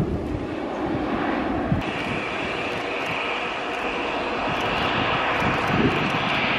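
Airliner's engines running close by, a steady noise with a high whine that comes in about two seconds in and grows louder toward the end.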